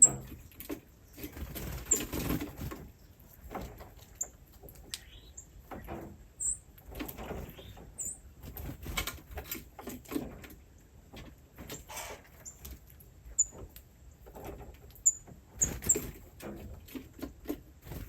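Small animals giving short, high-pitched chirps every second or two, amid irregular rustling and scratching.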